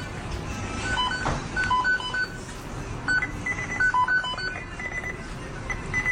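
A string of short electronic beeps at a few different pitches in an uneven rhythm, some tones paired, over a steady background hiss.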